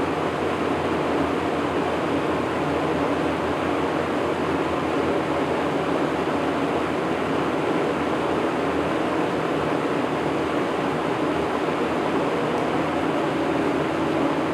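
1980s Lakewood box fan running steadily on medium speed, a constant rush of moving air with an even motor hum beneath it.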